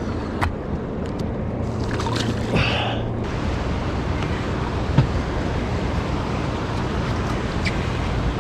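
Steady wash of water and wind around a small fishing boat, with a few faint knocks, one clearer about five seconds in.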